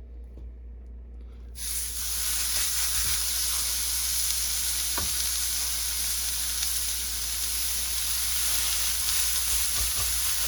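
Moose burger patties frying on an oiled flat-top griddle: a steady sizzle that starts suddenly about one and a half seconds in.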